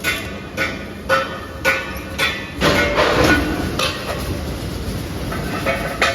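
Steel being struck with a hammer, about two blows a second, each blow ringing on the metal, with a clattering stretch midway and a few more ringing strikes near the end.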